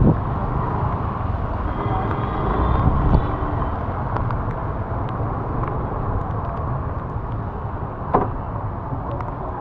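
Steady road and traffic noise heard from a moving vehicle, with a faint horn-like tone about two seconds in and a single sharp knock about eight seconds in.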